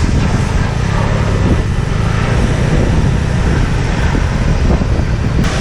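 Steady wind rumble on the microphone over a running vehicle engine.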